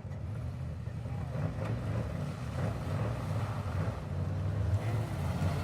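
Off-road truck engine running steadily, its low note swelling slightly about five seconds in.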